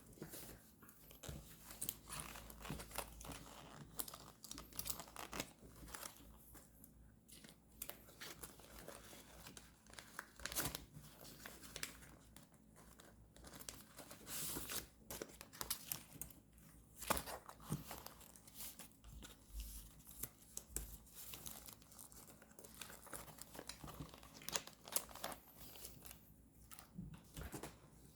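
Paper handled up close: irregular rustling, crinkling and tearing, many short sounds one after another.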